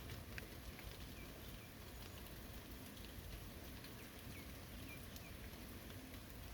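Steady rain falling on a forest, with many separate drops ticking close by. A bird gives a few short, high chirps in the middle.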